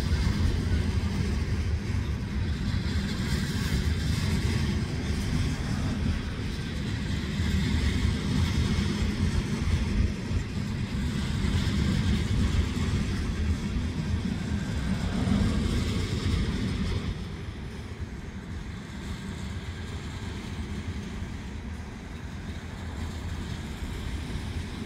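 Loaded freight cars rolling past on the rails: a steady low rumble of steel wheels with rattling and clatter. It drops noticeably quieter about two-thirds of the way through, as the train is heard from farther away.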